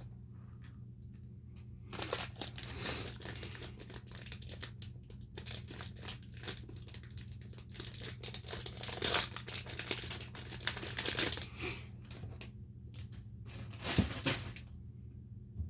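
Packaging of a Pop-It fidget spinner being crinkled and torn open by hand, in irregular crackling bursts for most of the stretch, with a sharper loud rip near the end.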